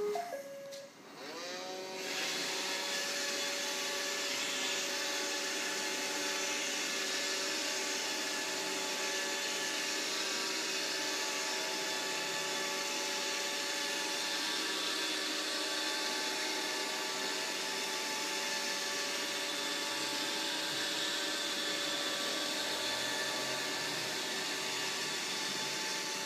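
Vacuum cleaner switched on: after a few short electronic tones, the motor spins up about a second and a half in, rising quickly in pitch, then runs steadily with a whine of several steady tones over a hiss.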